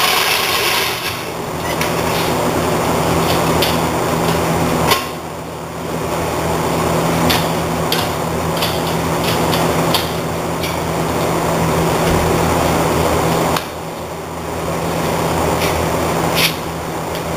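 Metal tools knocking and clanking a few times, several seconds apart, during wheel work on a car, over a steady shop hum.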